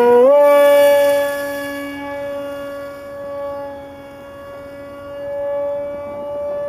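RC model airplane's motor and propeller running, a steady pitched drone. It steps up slightly in pitch just after the start, then fades and swells again as the plane flies.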